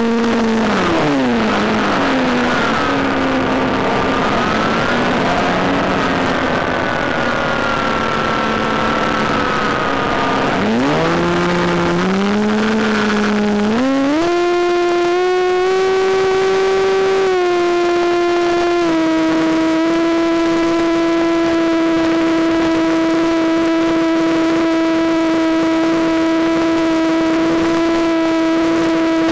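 Electric motor and propeller of a Penguin FPV model plane whining in flight. The pitch falls as the throttle comes off at the start and stays low for about ten seconds, then climbs in steps to a steady high whine held for the rest, over a constant rush of air.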